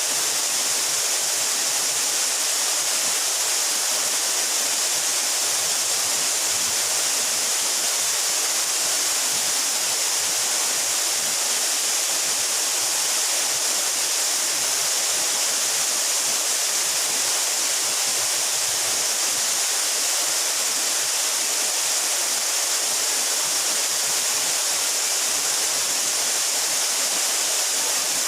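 A 12-metre mountain waterfall: a steady, unbroken hissing rush of falling and splashing water.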